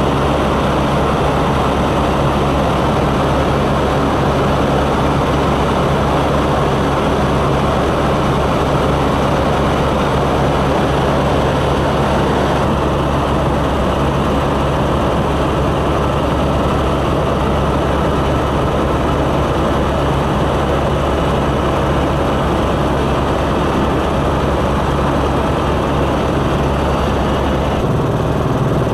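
Melamchi River in flood, rushing past as a loud, steady rumble with a hiss above it. The hiss dulls a little about halfway through.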